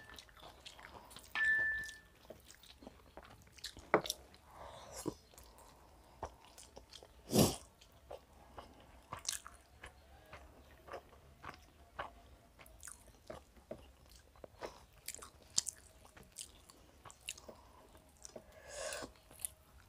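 Close-miked chewing and mouth smacking of people eating biryani by hand, a run of irregular short clicks and smacks with one louder smack about seven seconds in. A brief high tone sounds about a second and a half in.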